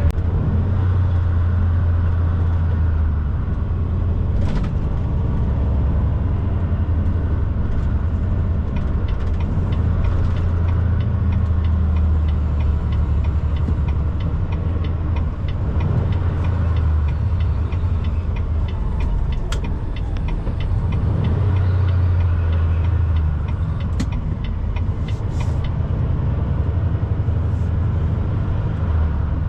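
Natural-gas semi truck being driven, its engine and road noise a steady low rumble that swells and eases with speed, with a few sharp clicks and knocks.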